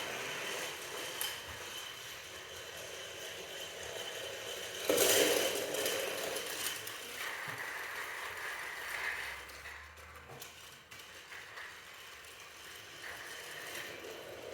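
Battery-powered Thomas and Percy toy trains running along their track: small geared motors whirring with steady clicking and rattling, with a louder clatter about five seconds in.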